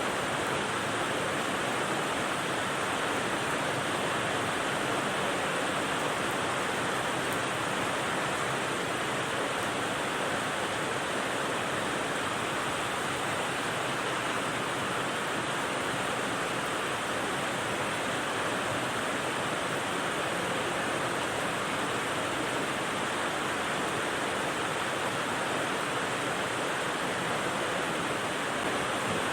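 Steady rain as sleep white noise: an even, unchanging hiss with no separate drops standing out.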